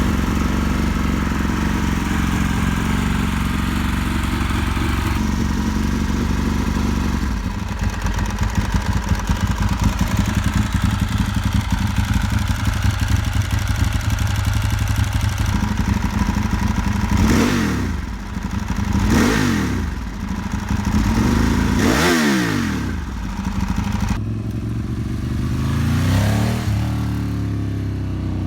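Ducati 748 race bike's L-twin engine just after a cold start, running at a fast idle that drops to a lower, steady idle about seven seconds in. In the second half the throttle is blipped four times, each rev rising sharply and falling back to idle.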